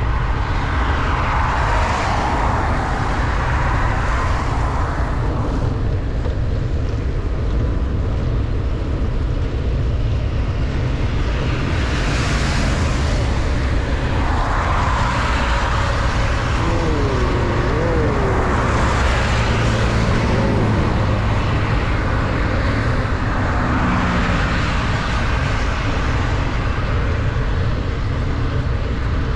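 Wind rumbling on the microphone of a bicycle riding fast in heavy rain, with wet-road hiss. The hiss swells and fades several times, like vehicles passing on the wet road.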